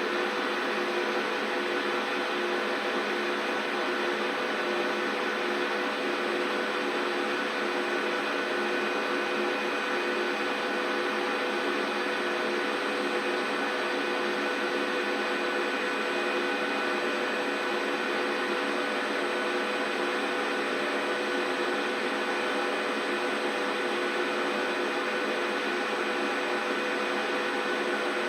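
Large 39 kg commercial front-loading washing machine running, a steady motor hum with several constant whining tones and no change in pitch or level.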